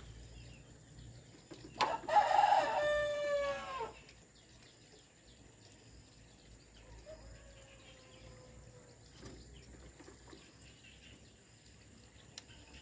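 A rooster crowing once, loud, for about two seconds, its call falling in pitch at the end; a much fainter drawn-out call follows a few seconds later.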